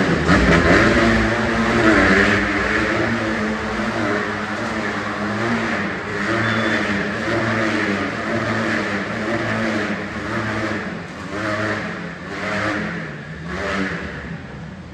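Motorcycle engines revving as the riders circle inside a steel-mesh globe of death, the pitch rising and falling over and over. Toward the end the sound breaks into separate swells and fades.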